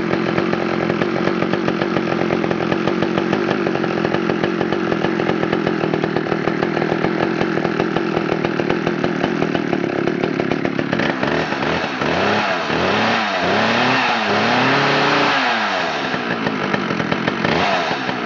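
Pioneer P51 two-stroke chainsaw running steadily, then revved up and down about four times in quick succession before it dies away at the very end.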